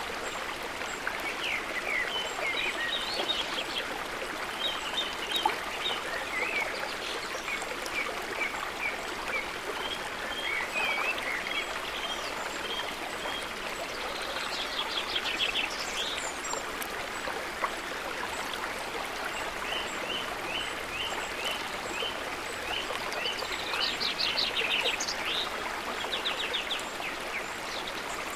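Steady rushing of a flowing stream, with small birds chirping and trilling over it, including a few quick trilled runs.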